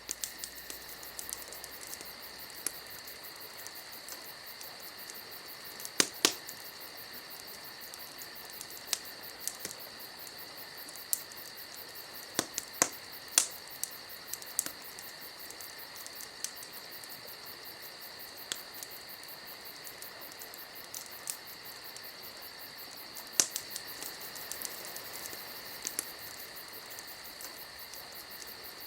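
Steady high cricket-like chirring, with scattered sharp pops and clicks over it; the loudest is a pair of pops about six seconds in.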